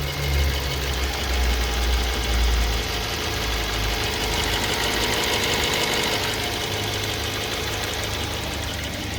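BMW E90 318i's N43 four-cylinder petrol engine running, with a fast, even ticking over the engine note and a heavier low rumble in the first three seconds. This is the intermittent engine knock the owner is chasing.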